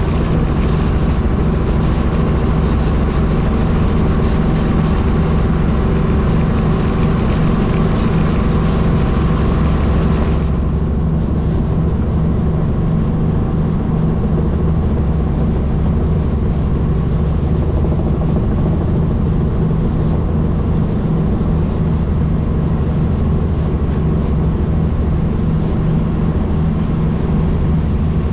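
Helicopter in flight heard from aboard: steady engine and rotor noise with a rapid, even low throb from the blades. The higher hiss drops away abruptly about ten seconds in, leaving the low rotor drone.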